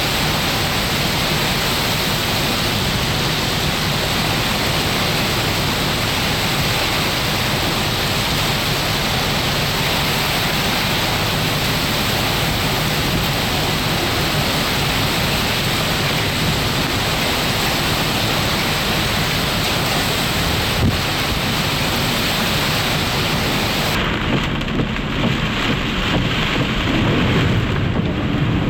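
Heavy thunderstorm rain pouring in a dense, steady hiss, with a single sharp click about 21 seconds in. About 24 seconds in the high hiss drops out abruptly, leaving softer, uneven rain and a low rumble near the end.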